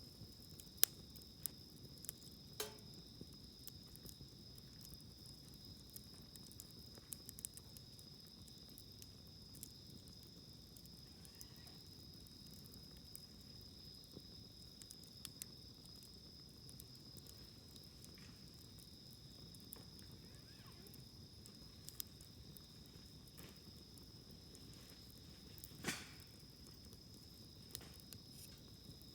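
Wood campfire crackling faintly with scattered small pops and snaps, a louder snap about three seconds in and another near the end. A steady high insect trill, like crickets, runs underneath.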